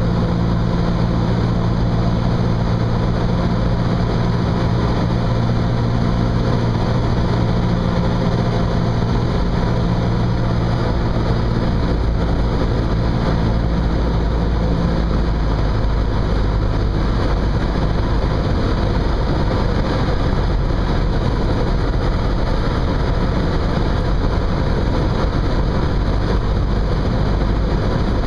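Cessna 172's piston engine and propeller running steadily, heard inside the cabin over a broad rush of noise. About halfway through, the engine's steady tones fade away and a deeper low rumble takes over.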